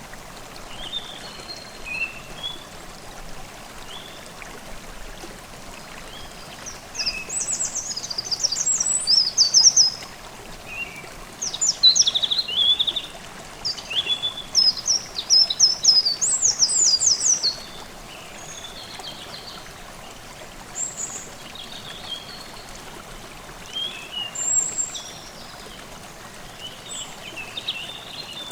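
Forest stream babbling steadily, with songbirds singing over it in short, high phrases and trills, busiest in the middle of the stretch.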